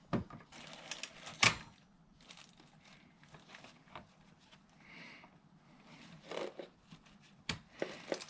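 Scattered clicks and knocks of hand tools on a motorcycle oil filter, with a sharp click about one and a half seconds in and a quick run of small clicks near the end.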